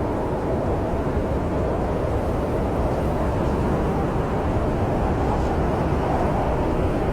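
Snowstorm wind: a steady, low rushing rumble with no distinct crackles.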